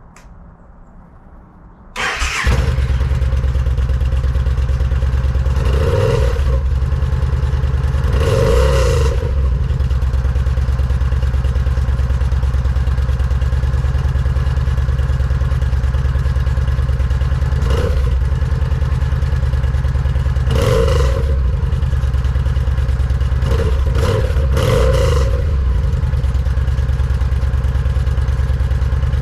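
2013 Yamaha V-Star's V-twin engine on its stock exhaust, starting about two seconds in and then idling steadily, with several short throttle blips.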